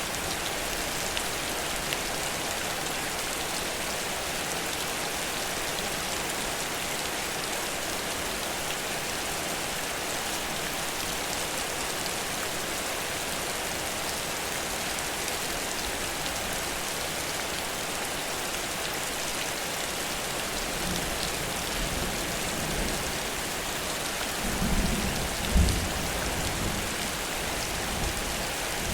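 Heavy rain falling steadily in a downpour, with a rumble of thunder building in the last third and peaking a few seconds before the end.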